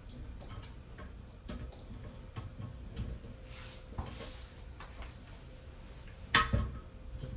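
Light clicks and taps of a water supply line being fitted and hand-tightened back onto a toilet fill valve, with a louder knock about six seconds in.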